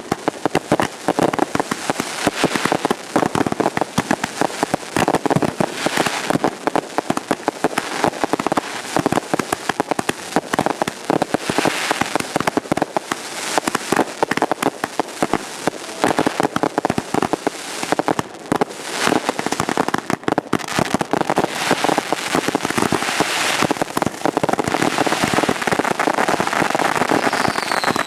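Consumer-grade 1.4G fireworks going off in a dense, unbroken barrage of pops and crackling, with a short falling whistle near the end.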